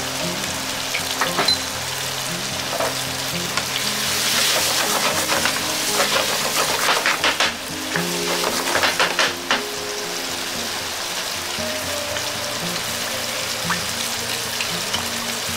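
Chicken, tofu and vegetables sizzling in sauce in a frying pan, with a wooden spatula stirring and scraping through the food for several seconds in the middle.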